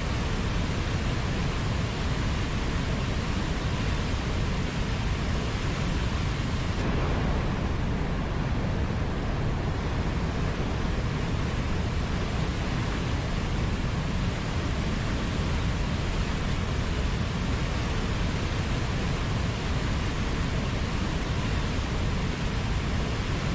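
Steady rushing noise with a strong low rumble and no separate events.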